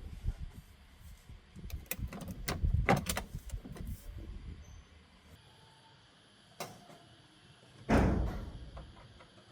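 Scattered clicks and knocks of car parts being handled, then a sharp knock and, about eight seconds in, a single heavy thud like a car door or panel being shut.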